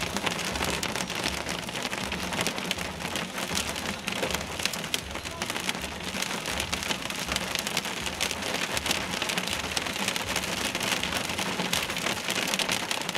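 Heavy rain mixed with hail pelting a vehicle's roof and windshield: a dense, steady drumming of countless small impacts.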